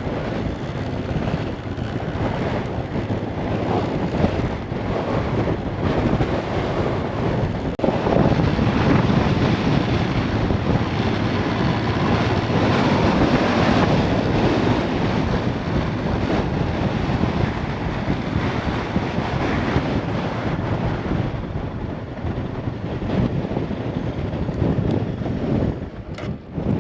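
Strong wind gusting and buffeting the microphone, a steady roar that swells in the middle and eases near the end.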